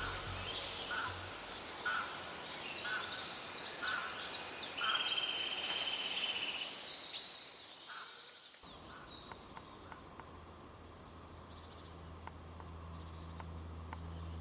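Woodland ambience with small birds calling: a run of quick high chirps and a short trill. After about eight seconds the birds fade and a low steady hum comes in.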